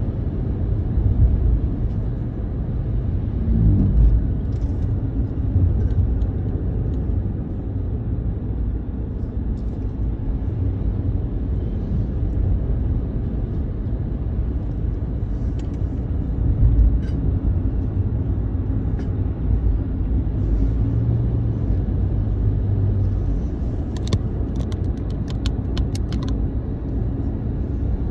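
Steady low rumble with a quick run of sharp clicks near the end.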